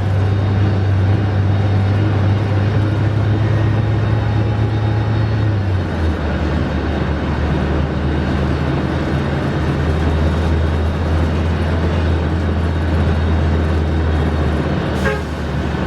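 Scania K310IB bus engine running with a steady low drone whose pitch steps down about six seconds in. A short, sharp high tone sounds near the end.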